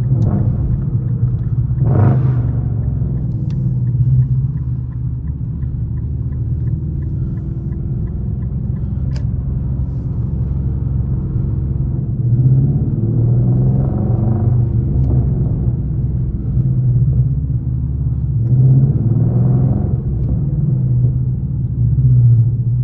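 Straight-piped Infiniti M56 5.6-litre V8 exhaust, a deep steady drone while driving, swelling louder several times as the engine pulls and then easing back.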